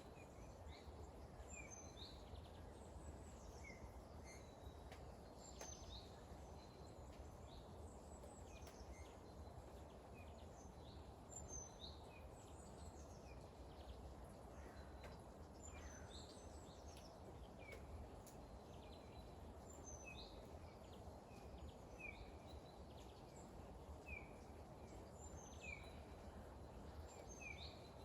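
Small birds chirping, with many short high calls that come roughly once a second in the later part, over faint steady outdoor background noise.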